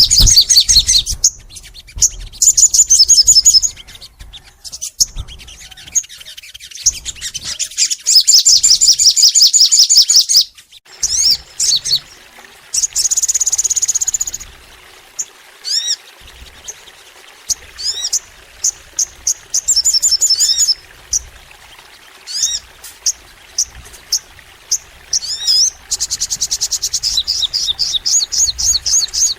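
A sogon songbird singing: high, very rapid trilled phrases lasting a couple of seconds each, with a single held high whistle near the middle, then a run of short sharp chirps before another long fast trill near the end.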